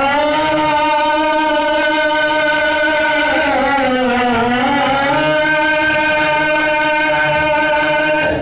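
A man singing one long held note with a slight wobble; the pitch sags about halfway through, rises back and holds, then breaks off at the end.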